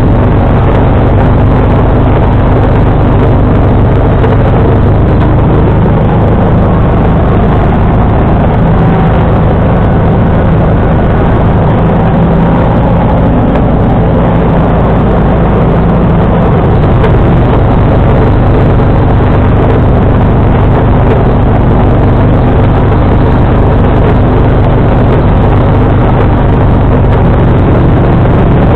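John Deere 445 garden tractor's engine running steadily and loud, driving its 47-inch front snowblower, with a slight rise and fall in engine pitch midway.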